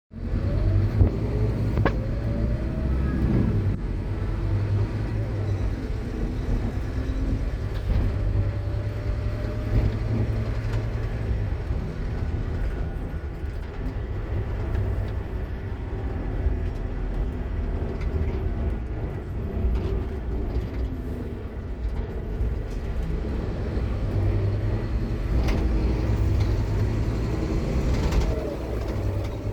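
Scania K230UB bus's diesel engine running under way over a steady low rumble. Its ZF Ecomat automatic gearbox gives a loud whine that rises and falls in pitch as the bus speeds up and changes gear.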